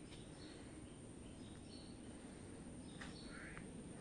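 Faint forest ambience with small birds chirping: short high chirps repeating throughout, and a brief lower call about three seconds in.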